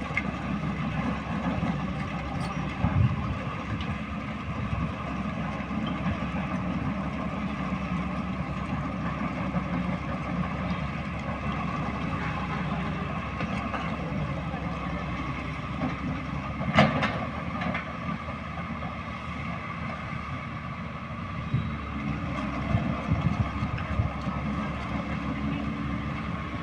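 Truck engine running steadily, with a sharp knock about seventeen seconds in.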